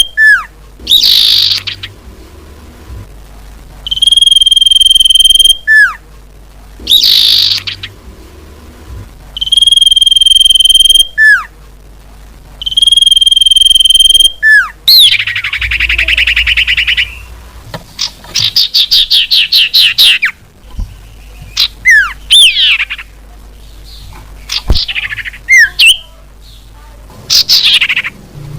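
Common iora (cipoh) calls played as a bird-lure recording. Several long, steady whistles are each followed by a falling note and a quick rising sweep. From about halfway, a harsh chatter, a rapid run of trilled notes and assorted sweeping chirps follow.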